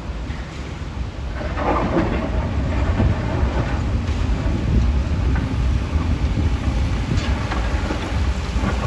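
Heavy rock-crushing machinery running with a deep, steady rumble, stone grinding and knocking against metal, with a louder crunch about a second and a half in.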